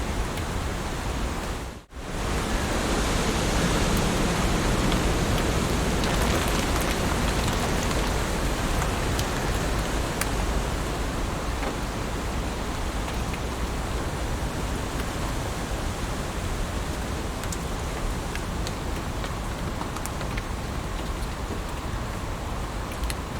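Steady heavy rain: an even hiss with scattered sharper drop ticks. It cuts out for a split second about two seconds in, then comes back slightly louder.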